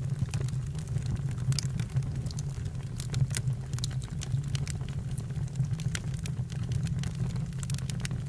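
Campfire crackling: irregular sharp snaps and pops over a steady low rumble of the burning fire.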